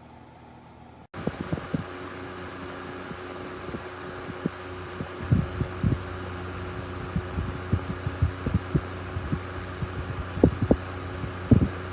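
Honeywell HT900C TurboForce desk fan running, with a steady motor hum and airy hiss and many irregular low thumps over it. The sound cuts in abruptly about a second in.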